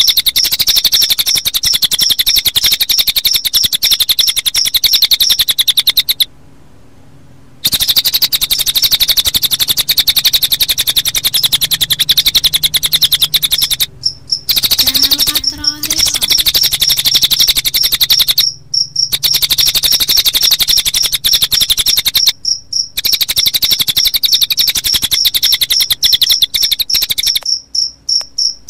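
Recorded cililin bird song mixed with cricket chirping: a dense, very rapid high trill that goes on without letting up, broken by a pause of a second or so about six seconds in and by a few short breaks later.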